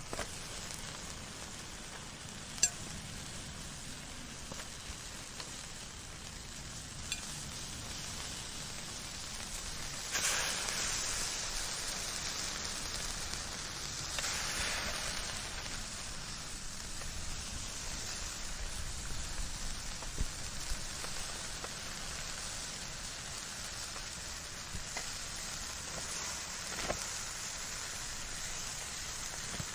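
Fire burning with a steady hiss, scattered sharp crackles and pops, and brief louder flare-ups of rushing flame about ten and fourteen seconds in.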